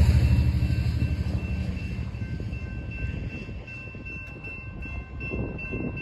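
Amtrak San Joaquin passenger train rumbling away on the rails after passing, its noise fading steadily. A railroad crossing warning bell keeps ringing in a steady repeating pattern, standing out more clearly as the train dies away.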